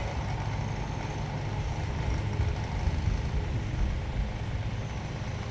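Steady low hum with faint, even background noise and no distinct strikes or shouts: room tone.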